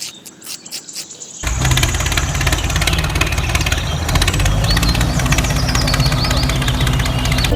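Small engine of a mini DIY tractor starting abruptly about one and a half seconds in and then running steadily with a fast, even firing pulse.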